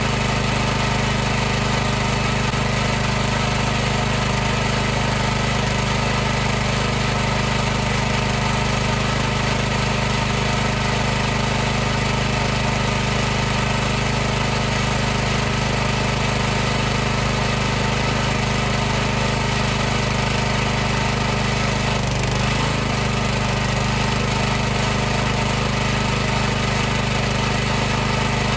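High-pressure washer's motor and pump running continuously with a steady hum and hiss, a brief wobble in pitch a little past two-thirds of the way through.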